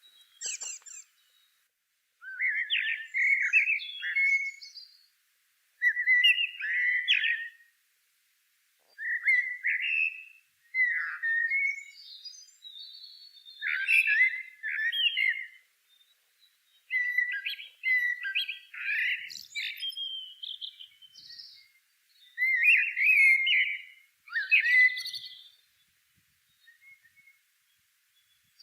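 A songbird singing short, warbled phrases of one to two seconds each, separated by brief pauses and repeated about every three to four seconds.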